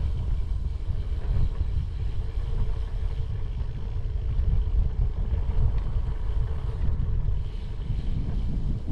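Wind buffeting the microphone of a bicycle rider coasting downhill: an uneven low rumble.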